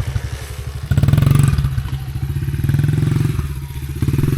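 Small dirt bike engine running with a steady pulse, revved up sharply about a second in and again near the end.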